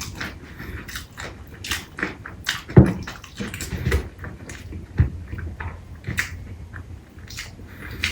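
Close-miked eating: a person biting and chewing chicken and rice, with irregular wet mouth clicks and smacks, and a loud thud a little under three seconds in and another at about five seconds.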